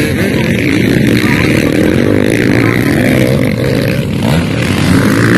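Motocross dirt bike engines running and revving, loud and continuous, their pitch rising and falling.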